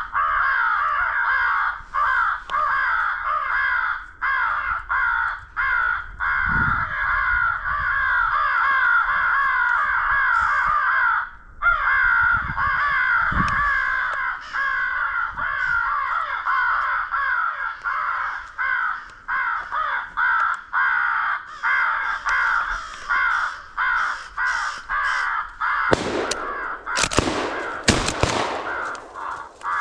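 Many American crows cawing in a dense, continuous chorus. Near the end there are a few short, harsher noisy bursts.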